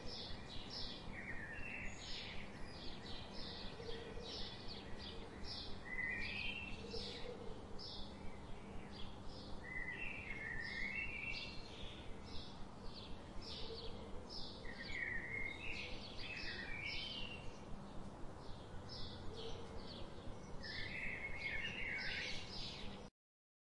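Birds chirping: a quick run of short, repeated high chirps mixed with warbled phrases, over a low steady hum. It cuts off suddenly near the end.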